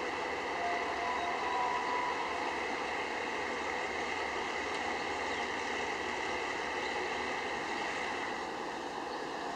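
Distant diesel-hauled passenger train, a steady, even rumble and hiss with a faint high hum running through it.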